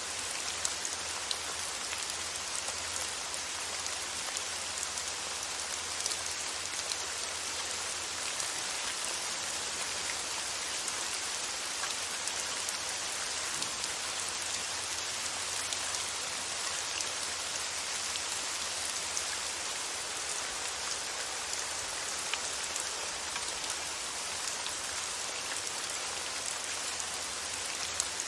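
Steady rain falling on a surface, an even patter of drops with scattered individual drop clicks, used as calming white noise.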